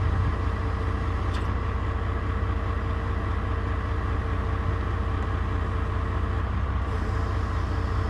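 Tractor engine running steadily at a low drone, with a faint steady whine that stops about six and a half seconds in.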